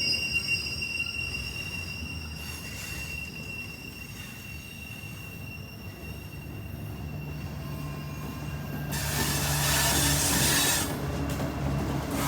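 Freight train rolling past, its wheels squealing on the rail in high steady tones that fade over the first few seconds. About nine seconds in, the rumble of the cars grows louder over a low steady hum.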